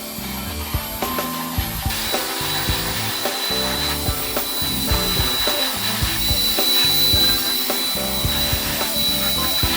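Small handheld electric mini blower (jet fan) running with a steady high-pitched whine and rushing air, which starts about two seconds in, over background music.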